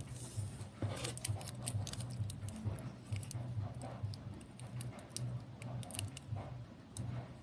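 Handling noise: irregular small clicks and light rattles over a low, wavering hum.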